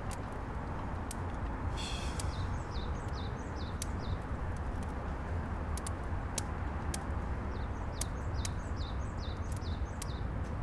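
Small birds chirping in groups of short, quickly falling calls over a steady low outdoor rumble, with scattered sharp clicks and a brief hiss about two seconds in.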